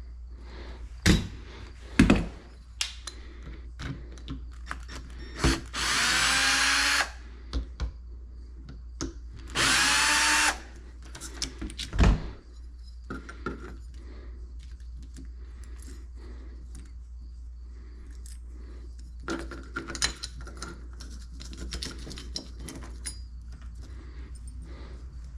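Power drill run twice in short bursts of about a second each, its motor pitch shifting as it spins, between sharp knocks and clatter of tool handling.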